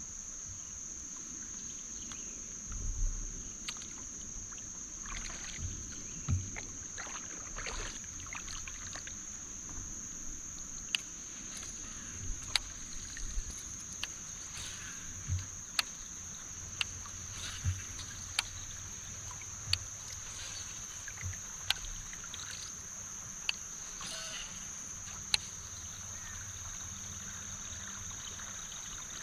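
Scattered knocks and clicks of gear being handled in a fishing kayak, some with dull thuds against the hull, over a steady high-pitched drone of insects.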